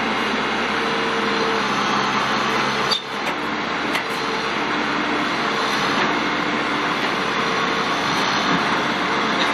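Backhoe's diesel engine running steadily, with a couple of sharp knocks about three and four seconds in.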